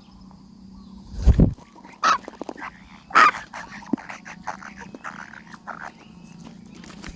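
A low thump about a second in, followed by two loud, short animal calls and then a run of softer, shorter ones.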